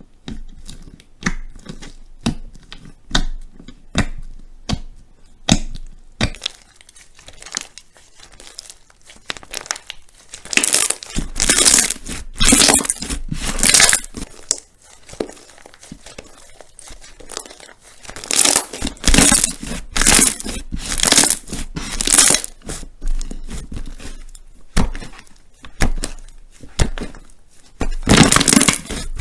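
Crunchy slime being squeezed and pressed by hand. It starts as separate sharp pops, then builds into repeated bursts of crisp crackling.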